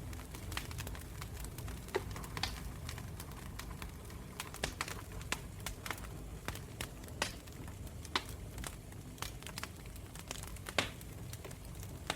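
Campfire burning, the wood crackling and popping at irregular intervals over a low steady rumble, with a few louder pops about two seconds in and near the end.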